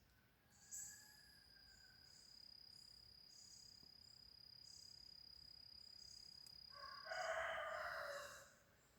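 Faint insects calling: a steady high trill with a regular high chirping behind it. About seven seconds in, a louder animal call lasts about a second and a half.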